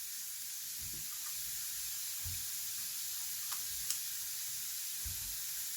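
Steady hiss of water running from an open tap, with a few faint soft knocks and a click about four seconds in.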